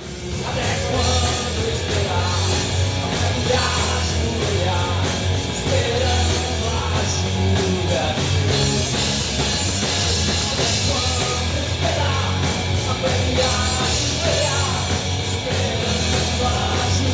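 Rock music with a singing voice, steady and loud throughout.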